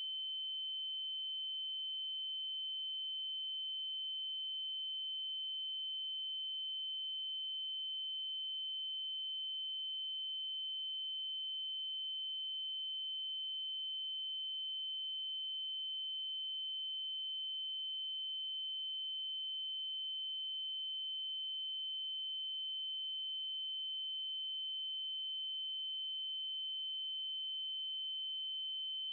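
Steady electronically generated 3072 Hz triangle-wave tone, one high-pitched note held unchanging throughout.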